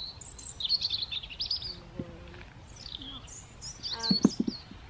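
Small songbirds singing in short, high chirping and trilling phrases, several in a row. About four seconds in comes a brief, louder low sound that could be a voice.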